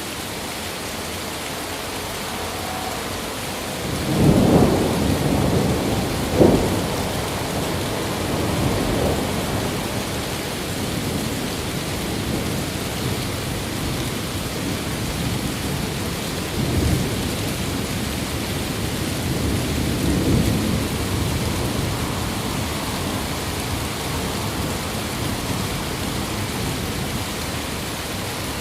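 Thunderstorm: steady rain hiss with rolling thunder. A loud rumble builds about four seconds in, a sharp crack follows a couple of seconds later, and softer rumbles come back a few times afterwards.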